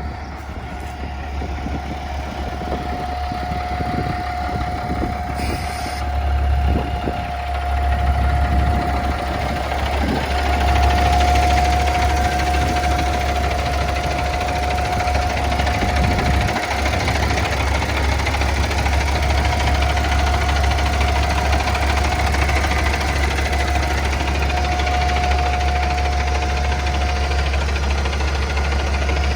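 Natural-gas engine of a Kenworth T800 CNG semi truck idling steadily: a low rumble with a steady whine above it. It grows louder over the first several seconds, then holds even.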